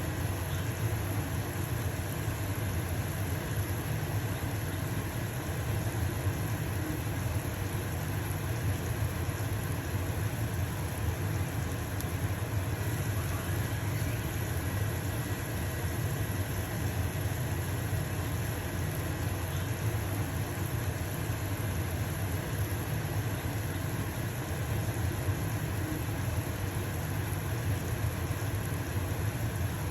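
Stovetop exhaust fan running steadily with a low hum, over the sizzle of a pancake frying in a pan.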